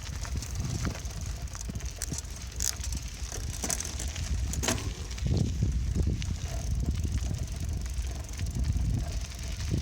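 Bicycle being ridden: a steady low rumble of wind and road on the microphone, with the bike rattling and clicking over the surface and a sharp squeak or click near the middle.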